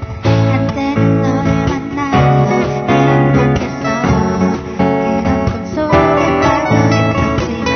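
Amateur band playing live, led by strummed acoustic guitar.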